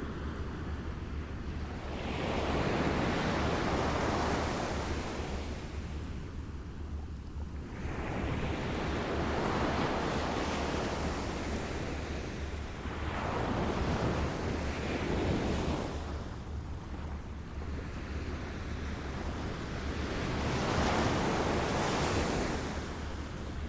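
Small waves lapping: a watery wash that swells and fades about every six seconds, over a steady low rumble.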